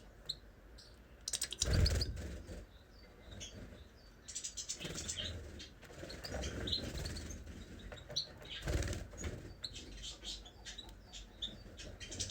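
Small cage birds giving short high chirps, with several brief flurries of wing flapping.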